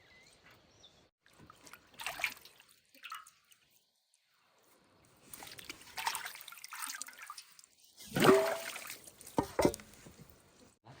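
Water trickling and splashing in irregular bursts, loudest about eight seconds in.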